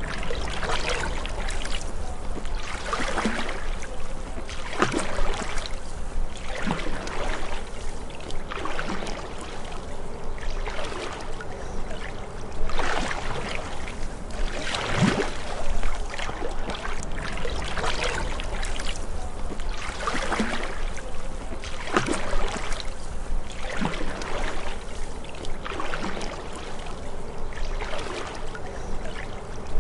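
Canoe paddle strokes in calm lake water: a splash and trickle of dripping water about every two seconds, over a steady low rumble.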